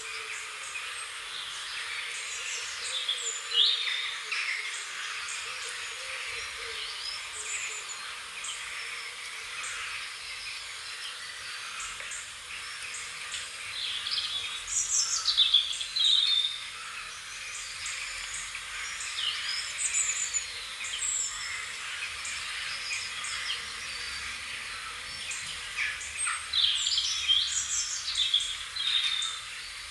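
Several birds chirping and singing in overlapping short calls and trills, loudest about halfway through and again near the end, over a steady background hiss.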